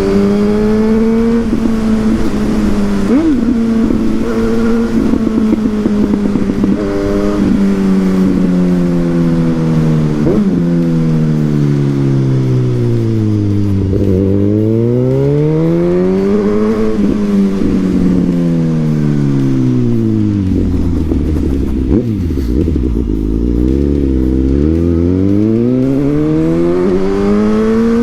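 Suzuki GSX-S1000's inline-four through a Yoshimura exhaust while riding: the revs hold steady, then fall and climb again twice as the bike slows and accelerates, rising near the end.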